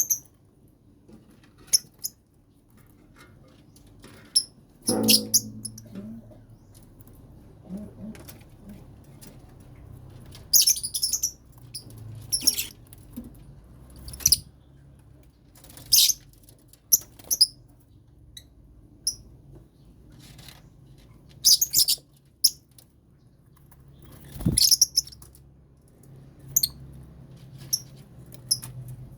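Lovebirds chirping: short, sharp high calls at irregular intervals, with a louder burst about five seconds in and another near the end, over a faint steady low hum.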